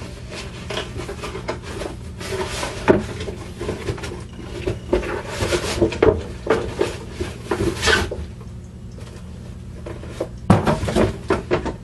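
Packaging from a terrarium kit being handled and searched through: irregular rustles, taps and knocks of cardboard and plastic, easing off for a moment near the end, over a steady low hum.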